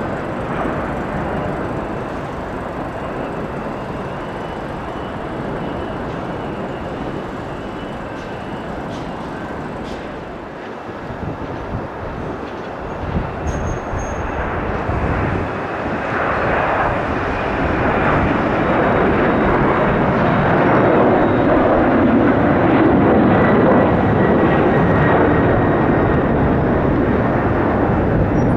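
Jet airliner engines passing close by, a broad rumble that swells about halfway through and stays loud, with a faint steady whine over it.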